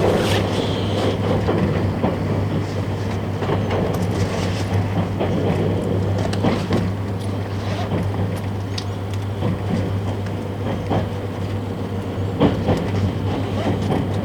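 Cabin noise of a 651 series electric train running: a steady low hum and rumble, with scattered short clicks and knocks from the wheels on the track.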